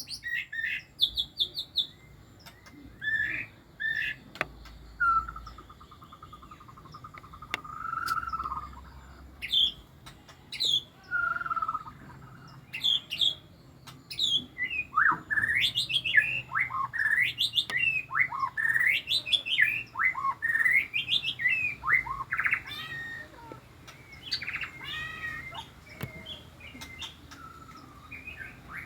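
White-rumped shama (murai batu) singing a long, varied song of loud whistled notes and rapid trills, with a long buzzing trill about five seconds in and quicker, denser phrases in the second half.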